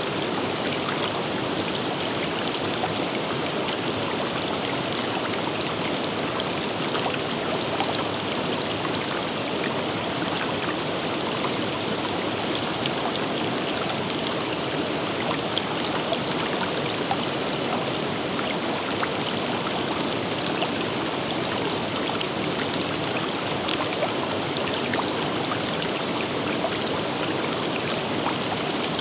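River water flowing and splashing over rocks in a steady, unbroken rush, with many small droplet splashes.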